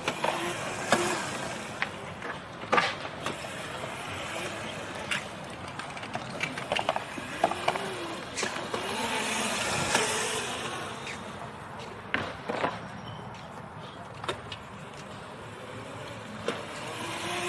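A kid's small dirt bike riding on a skate ramp. Its motor pitch rises and falls as it climbs and drops, and sharp knocks and rattles come from the wheels and frame hitting the ramp.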